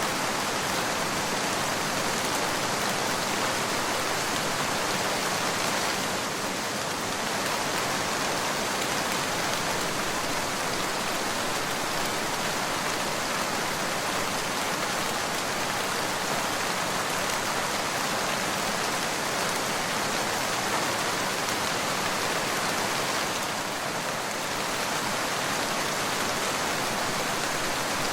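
Steady rain falling, an even hiss that softens slightly twice for a moment.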